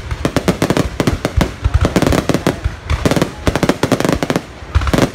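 Aerial fireworks display: a rapid, dense string of bangs and crackles as shells burst overhead, several reports every second.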